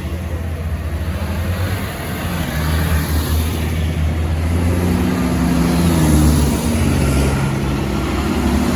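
Modern farm tractor diesel engines running as tractors drive past, the engine sound building to its loudest about six seconds in and then easing slightly.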